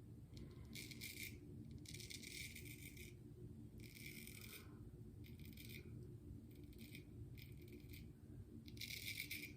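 Razor scraping stubble through wet shaving lather, about seven short faint strokes roughly a second apart.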